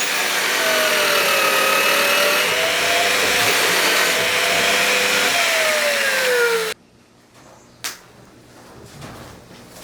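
Power tool running with a wavering pitch as its load changes, then stopping suddenly about two-thirds of the way through, followed by a single click.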